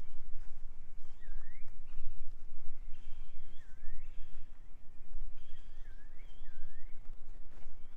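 A bird calling repeatedly, each call a short high note and a swooping note that dips and then rises, over a steady low rumble and the faint tread of footsteps.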